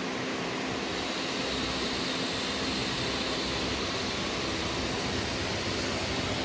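Passenger train running, a steady even rumble and rushing noise.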